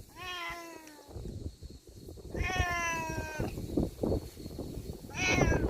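A cat meowing three times, the middle meow the longest at about a second and sliding slightly down in pitch, with low rustling and bumps between the calls.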